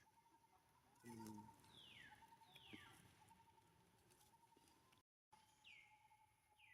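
Faint animal calls: a brief low pitched sound about a second in, then several short high calls that each drop sharply in pitch, over a faint steady hum.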